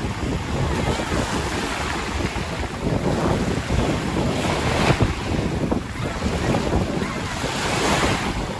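Caspian Sea waves washing onto the shore, the surf swelling every few seconds, with wind buffeting the microphone in a steady low rumble.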